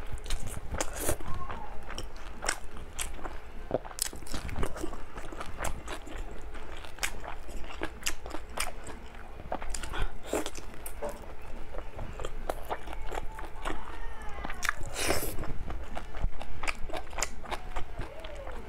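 Close-up eating sounds of a person biting and chewing braised pork, with many irregular wet mouth clicks and smacks.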